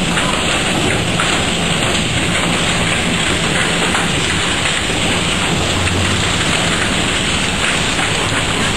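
Hailstorm: hail and heavy rain pelting down onto surfaces, a loud, steady, dense patter of countless small impacts.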